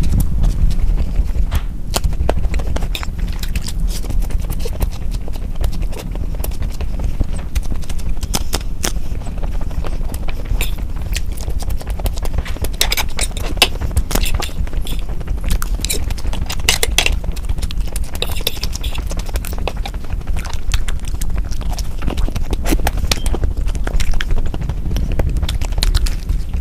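Close-miked eating: wet mouth clicks and smacks of chewing, with denser crisp crackling in the middle, over a steady low rumble.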